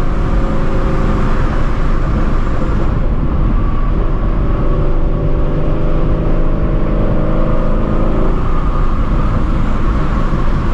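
Procharged Shelby GT350's 5.2-litre flat-plane-crank V8 running at a steady cruise at highway speed, its engine note holding an even pitch through the middle of the stretch.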